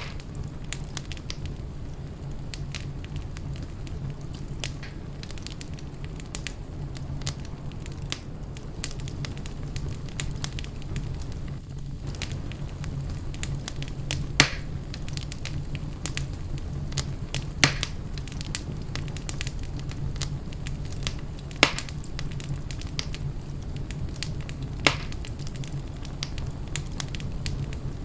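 Wood fire in a fireplace crackling steadily over a low rumble, with four louder pops about three seconds apart in the second half.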